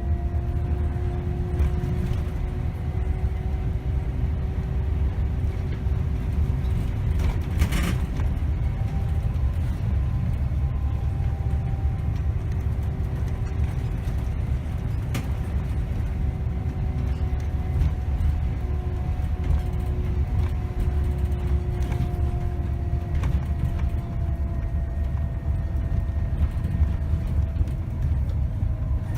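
2008 Scania K270 city bus with a five-cylinder diesel on the move, heard from the driver's seat: a steady low engine and road rumble with a drivetrain whine that rises a little and falls as the speed changes. There is a single knock about eight seconds in.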